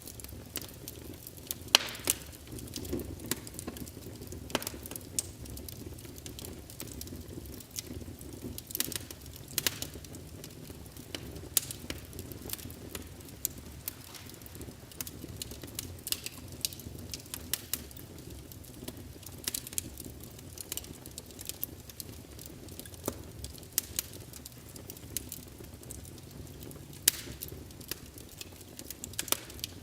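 Wood fire crackling in a fireplace: irregular sharp pops and crackles over a low, steady rumble of flame.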